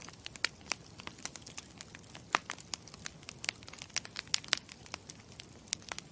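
Campfire crackling: a steady low hiss dotted with irregular sharp pops and snaps, the loudest about two and a half seconds in and again around four and a half seconds.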